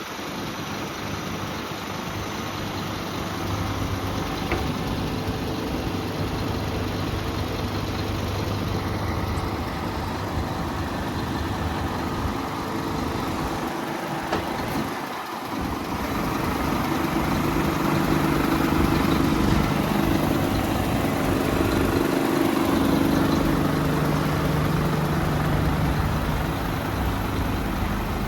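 Scania P320 truck's diesel engine idling steadily. About halfway through it dips briefly, then runs louder at a higher, steady engine speed.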